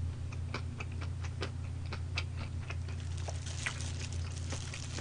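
Crunchy chewing of fried chicken close to the microphone: irregular sharp crackling clicks, several a second, over a steady low electrical hum.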